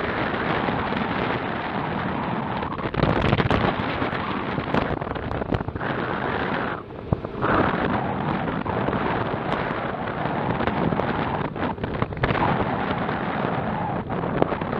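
Strong wind buffeting the microphone: a loud, continuous rushing rumble with a brief lull about seven seconds in.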